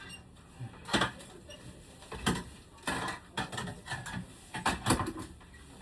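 Irregular series of sharp clicks and knocks, a dozen or so over about five seconds, the loudest about a second in and near the end, like hard parts being handled and fitted together.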